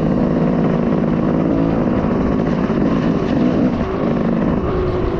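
Off-road vehicle engine running at low, fairly steady speed while being ridden over rough ground, easing off briefly about four seconds in.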